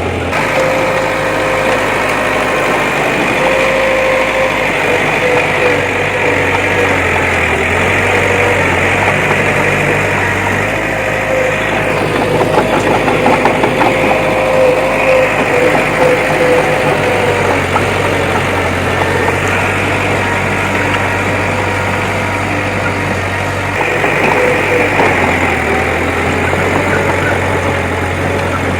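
Diesel engine of heavy earthmoving machinery running steadily under work, with a steady whine and some rattling in the middle.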